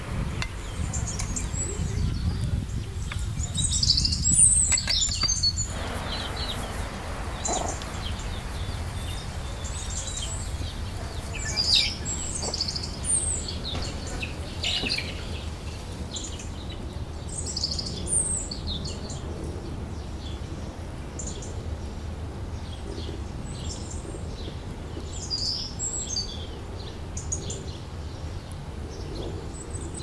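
Small birds chirping and calling over and over in short, high notes, over a steady low rumble.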